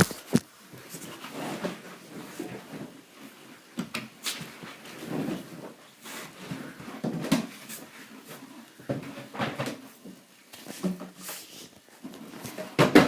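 Damp bed sheets being handled and pushed into a condenser tumble dryer's drum: irregular rustling of fabric with soft knocks against the machine, and a sharp knock near the end.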